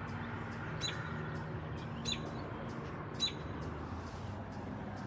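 A bird chirping three times, each a short falling chirp, a little over a second apart: the mother bird calling from the tree above her nest of nestlings.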